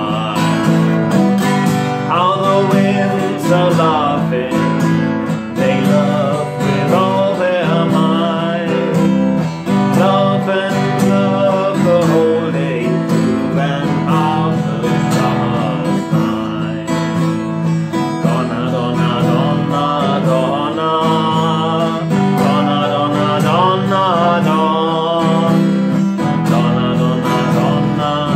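Acoustic guitar strumming steadily, with a wavering melody line carried over the chords.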